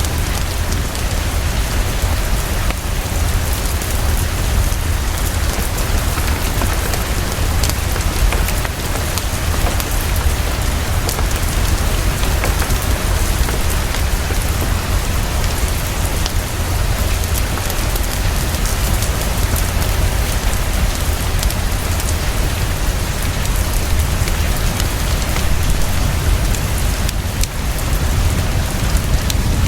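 Heavy, fast, steady rainfall with a low rumble underneath and a log fire crackling in scattered small snaps.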